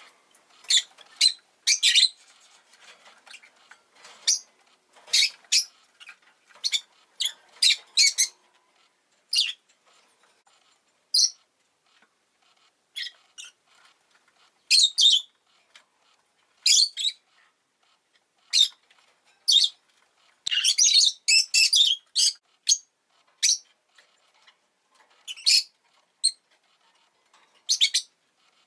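Rosy-faced lovebird chirping: short, sharp, high-pitched calls at irregular intervals, with a quick run of calls about twenty seconds in.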